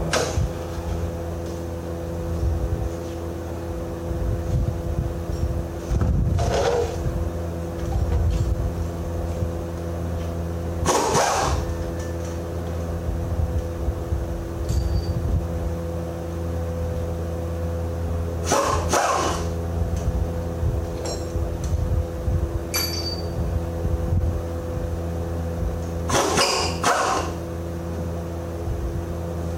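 A running machine's steady hum, with five short bursts of louder, harsher working noise a few seconds apart.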